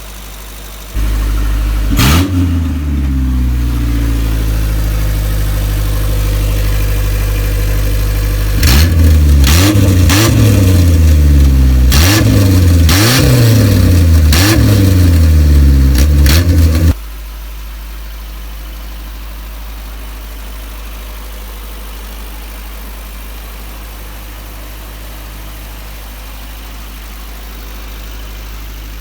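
Rebuilt Isuzu 4ZE1 2.6-litre four-cylinder petrol engine running on all four cylinders. It is revved once and falls back, then given a run of quick throttle blips. About seventeen seconds in it drops to a quieter, steady idle.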